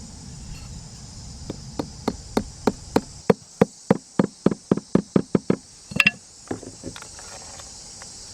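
A quick run of about fifteen sharp knocks, speeding up to around three a second, like a tool striking wood. A louder knock follows, then a few lighter taps near the end. Insects buzz steadily throughout.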